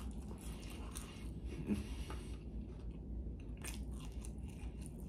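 A person chewing and biting food close to the microphone: scattered short clicks and crunches of eating, over a low steady hum.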